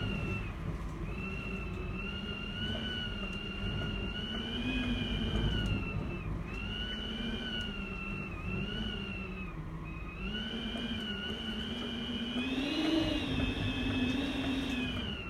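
Typhoon gale whistling and howling around an apartment building, with a rumble of wind underneath. The high whistle rises and falls in pitch as the gusts change and is loudest near the end.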